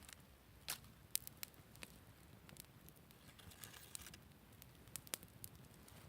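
Wood campfire crackling: scattered sharp pops and snaps, a few louder ones about a second in, with a brief soft hiss about three and a half seconds in.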